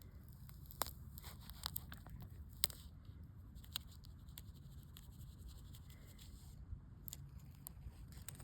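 Faint, irregular clicks and short crackles over a low, steady rumble.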